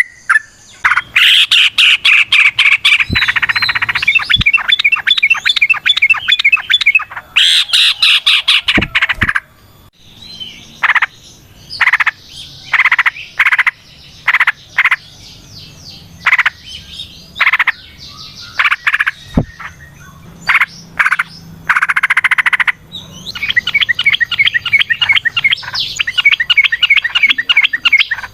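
Yellow-vented bulbul (trucukan) singing its long 'ropel' song: loud, very fast rattling runs of repeated notes, with a spell of separate short calls in the middle before the fast run starts up again.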